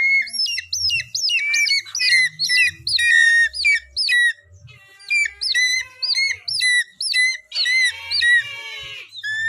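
A bird calling: a long run of short, high whistled chirps, about two or three a second, with a fuller burst of calls near the end.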